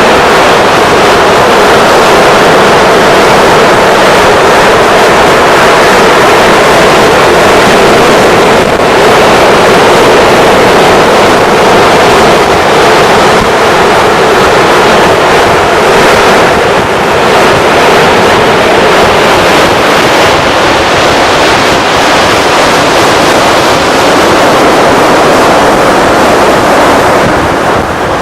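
Loud, steady rushing of wind on the microphone mixed with surf, with no distinct engine tone.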